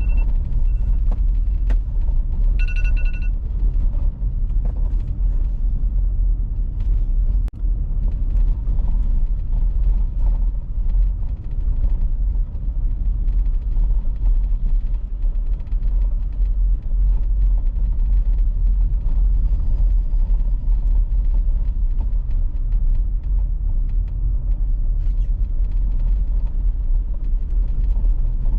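A car driving on an icy road, with a steady low rumble of tyres and engine and scattered light ticks. A short electronic beep sounds about three seconds in.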